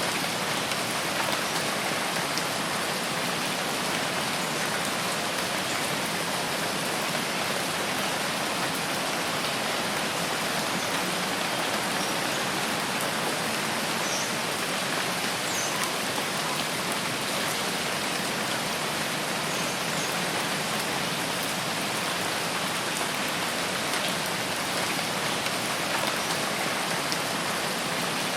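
Steady rain falling in a forest, an even unbroken hiss. A few faint, brief high chirps show through the rain partway through.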